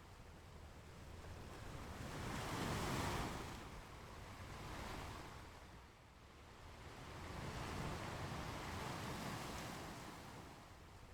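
Ocean waves washing onto a beach in slow swells, one peaking about three seconds in and another about eight seconds in, with a lull between.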